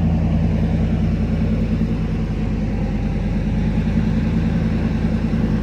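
V8 engine idling just after a cold start, a steady low rumble with a fast, slightly uneven pulse. Its cooling fan's clutch is fully locked in because the engine is cold, adding a fan rush over the idle.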